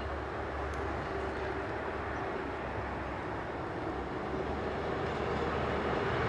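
Modern rack-railway railcar approaching round a curve, its steady running noise with a low hum growing slowly louder.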